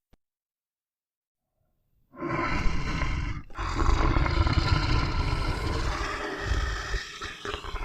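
About two seconds of silence, then a lion roaring, with a brief break about a second and a half after the sound begins.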